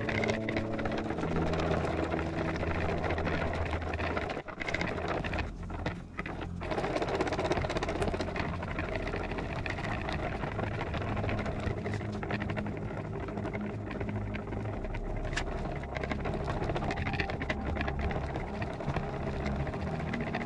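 Hand whisk beating a trifle topping mix with milk in a bowl: continuous rapid rattling and scraping, with short breaks about four and a half and six seconds in.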